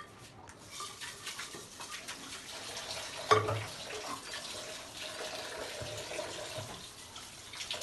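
Tap water running steadily while something is washed under it, with a single clunk about three seconds in and small knocks throughout.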